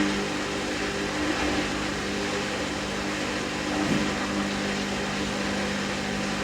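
Hoover DynamicNEXT washing machine's drain pump running with a steady hum and the rush of water being pumped out, cutting off suddenly at the end: the drain before the rinse stage of a wool cycle.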